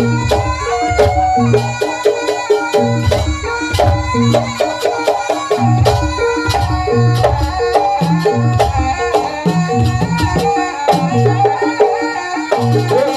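Live Javanese jaranan ensemble music: drums keep a steady beat under sustained pitched instruments, with sharp percussion strokes throughout.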